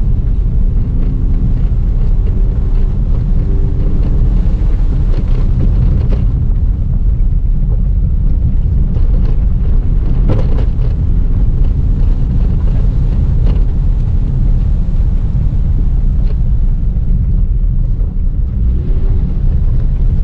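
Cabin sound of a Subaru WRX driven hard on a dirt rally course: a heavy, steady rumble of tyres and suspension on the loose surface, with the engine note rising and falling underneath and a few sharp knocks scattered through it.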